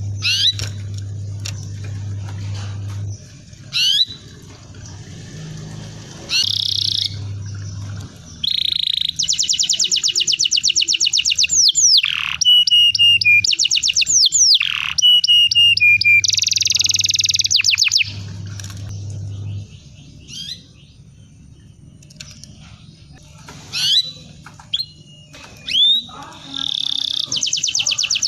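Domestic canary singing: long rapid trills of evenly repeated notes, fast downward-sweeping whistles and single sharp chirps, with pauses between phrases. A low electrical-sounding hum comes and goes underneath.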